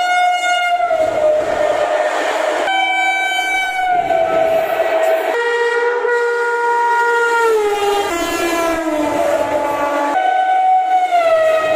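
WAP7 electric locomotive horns blaring as high-speed trains pass, in several abrupt back-to-back segments of two to three seconds each. In each, the horn's pitch drops as the train goes by, with the rumble and clatter of the train under some of them.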